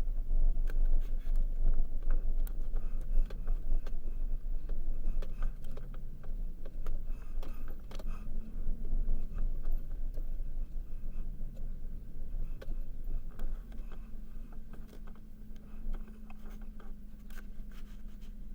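A vehicle driving: steady low engine and road rumble, with scattered rattles and knocks and a steady hum that comes in during the second half.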